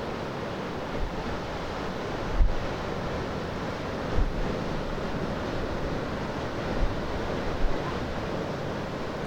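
Steady wash of surf and wind. Several gusts thump on the microphone, the strongest about two and a half seconds in.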